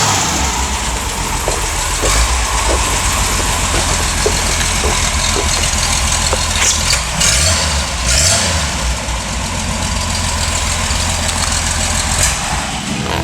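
1964 Ford E100 pickup's original 170 cubic inch inline-six engine running at idle, a steady engine sound.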